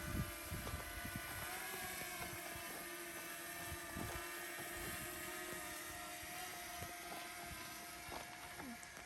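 A steady motor drone holding one pitch with overtones, under low wind rumble and scattered knocks on the microphone.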